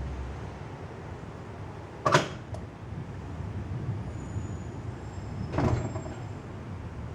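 Thunderstorm: two short, sharp cracks about three and a half seconds apart over a steady low rumbling noise.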